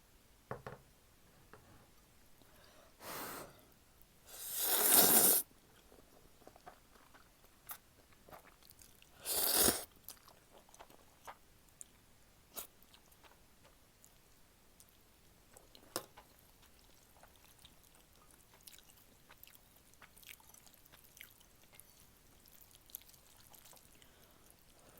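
A person slurping instant jjapaguri noodles in three noisy pulls: a short one, a long loud one about four to five seconds in, and another near ten seconds. After that comes close-up quiet chewing with small wet clicks.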